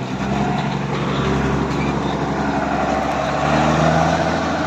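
A vehicle engine running steadily with a low rumble. A higher whining tone grows in about three and a half seconds in.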